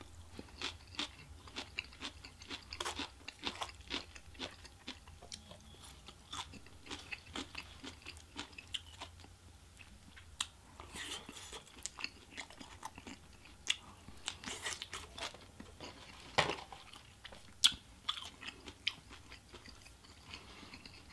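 Close-up chewing of takeout Chinese food, mouth-full eating sounds made of many small irregular crunches and wet clicks.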